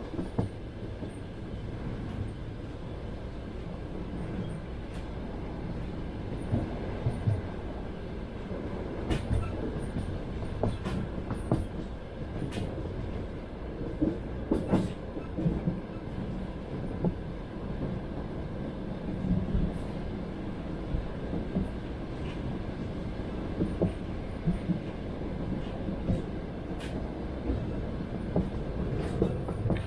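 Passenger train running on the rails, heard from inside a carriage: a steady rumble with the clatter of the wheels and irregular sharp knocks as they pass over rail joints.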